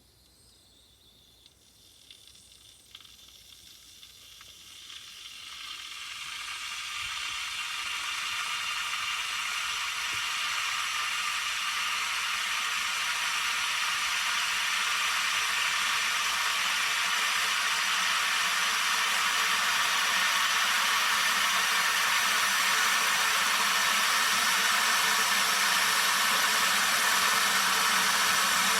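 Zilan 2200 W borosilicate-glass electric kettle heating water. After a few faint ticks, a hiss swells over the first several seconds and then settles into a steady, loud sizzle as the water nears the boil.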